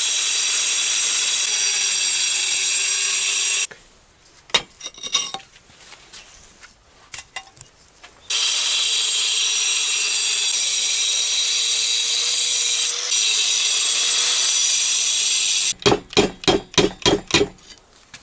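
Angle grinder cutting into brick, running steadily under load with its pitch wavering slightly. It stops about four seconds in and cuts again for about seven seconds. Near the end comes a quick run of knocks, about four a second.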